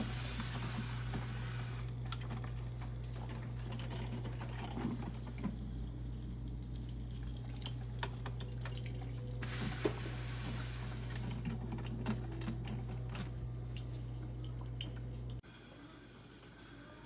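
Drip coffee maker running, with water trickling and dripping over a steady low hum and scattered small ticks. The hum cuts off suddenly near the end.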